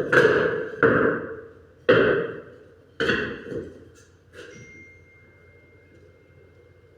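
Four loud, sharp knocks about a second apart, each with a short ringing decay, then a few lighter taps and a faint thin steady high tone.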